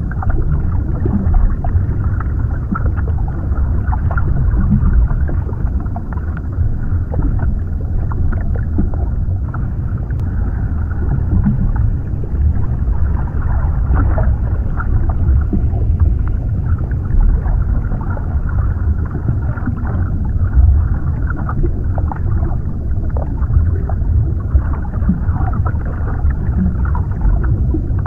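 Underwater ambience: a steady, muffled low rush of water with faint crackles and gurgles, deep and dull with nothing bright above it.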